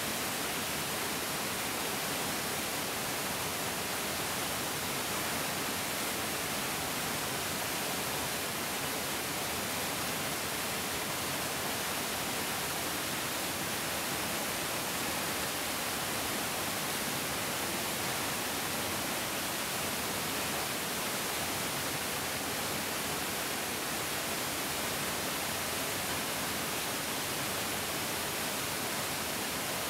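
Mountain stream rushing over rocks: a steady, even roar of flowing water with no changes.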